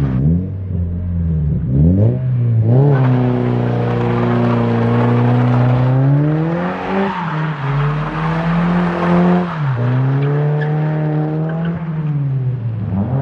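A modified car's engine revving hard: the revs climb and hang high for several seconds, dip briefly, hang high again, then drop and climb once more. A rough hiss runs through the middle stretch.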